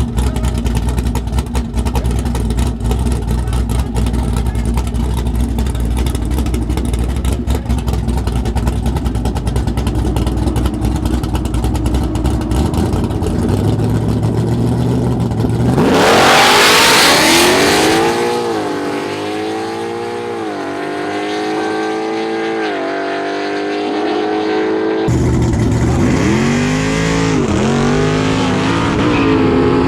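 Drag cars rumbling low on the line, then a loud launch: a combustion engine revs hard and climbs through several gear changes, its pitch rising and dropping back with each shift as it pulls away. After an abrupt cut, an engine is heard again climbing through gear changes.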